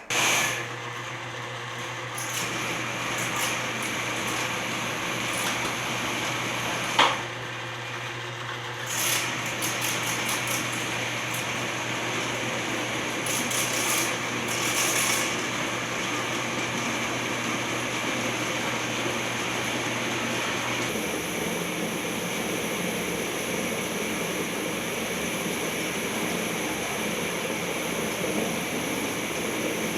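Electric sewer machine (drain snake) running steadily, its motor turning the cable as it is fed down the sewer line toward a clog. A single sharp knock about seven seconds in, and the running sound changes tone about two-thirds of the way through.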